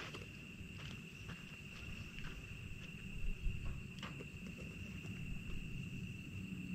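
Crickets chirring steadily on one high pitch, with a few sharp pops and crackles from a freshly lit campfire.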